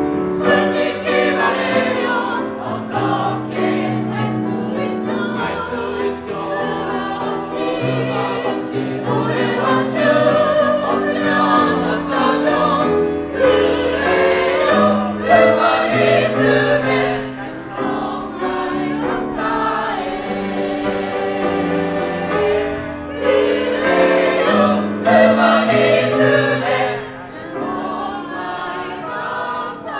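A choir singing, many voices together on long held notes that move from one pitch to the next.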